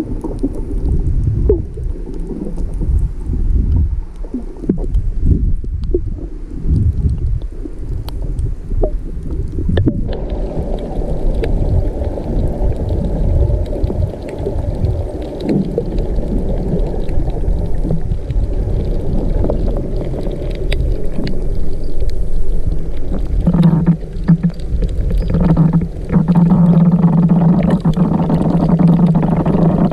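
Muffled underwater sound of water moving against the microphone, a low rumble with scattered clicks. A steady low hum comes in about three-quarters of the way through.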